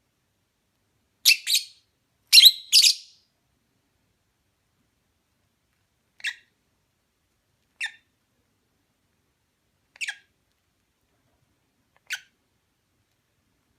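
Fischer's lovebirds calling in short, sharp, high chirps. Two quick doubled calls come in the first few seconds and are the loudest, followed by single fainter chirps about every two seconds.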